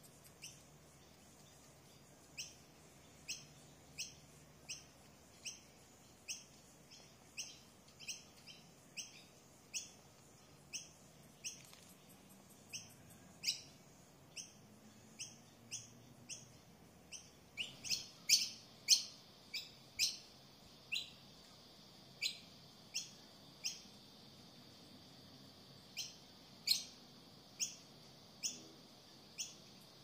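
A bird chirping: short, sharp chirps repeated about once or twice a second, with a quicker, louder run a little past halfway.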